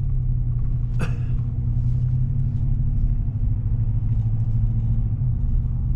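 Chevy Silverado's V8 engine running with a steady low rumble. A single brief click sounds about a second in.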